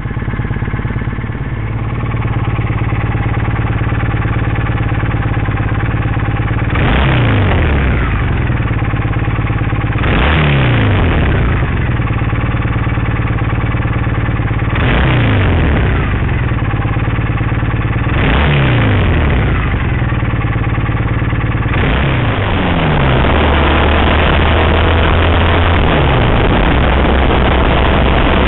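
Triumph Bonneville SE parallel-twin engine through Hyde peashooter exhausts: it idles steadily, is blipped four times, each rev rising sharply and falling back to idle, then is held at higher revs near the end.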